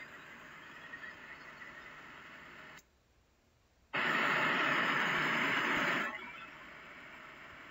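Recorded sound of an airplane in flight: a steady rushing noise that cuts out for about a second near the middle, then a much louder rush for about two seconds before it drops back to the quieter hum.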